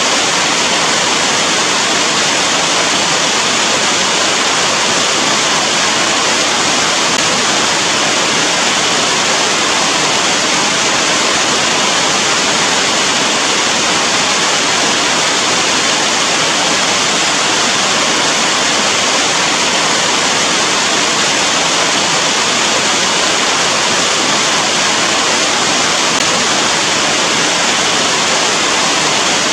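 Heavy rain falling steadily, a loud, even hiss that does not let up.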